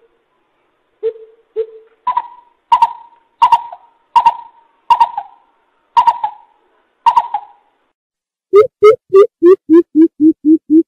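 Greater coucal decoy call: two deep hoots, then a series of about seven higher, ringing notes spaced under a second apart. From about eight and a half seconds in comes a fast run of deep hoots, about three a second.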